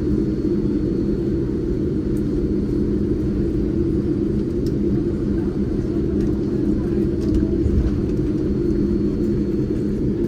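Steady low rumble inside the cabin of a Boeing 787-9 airliner taxiing, its engines running at idle, with a few steady low hums under it.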